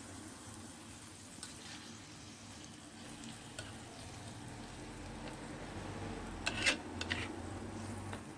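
Meat and grated garlic frying in olive oil in a clay tajine, being stirred, with a steady sizzle. A few sharp clicks come through, the loudest cluster about six and a half seconds in.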